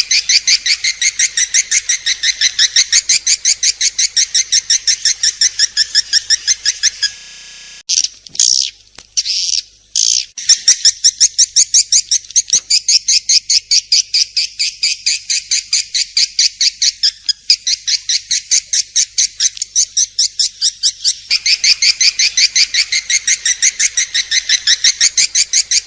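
Swiftlet calling: a fast, even train of high chirps, several a second, that breaks off about seven seconds in for a few separate louder calls, then starts again and runs on.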